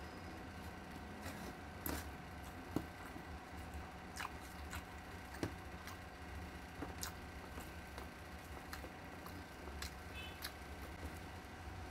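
Close-up eating sounds: chewing of rice and beef with soft wet mouth sounds, and scattered sharp clicks and taps of fingers against a stainless steel tray, the loudest about three seconds in. A steady low hum runs underneath.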